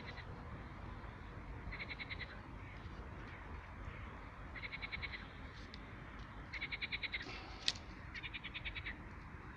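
A frog calling in short trains of rapid rattling pulses, four calls about a second or two apart, over a steady low background rush. One sharp click about eight seconds in.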